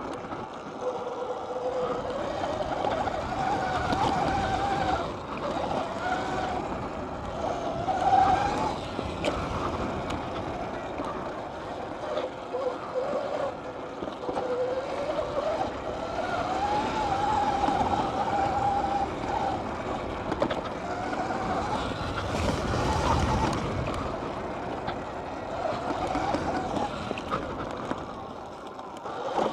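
Dirt bike ridden around a dirt track, its motor's pitch repeatedly rising and falling with the throttle, with a louder surge about 22 seconds in.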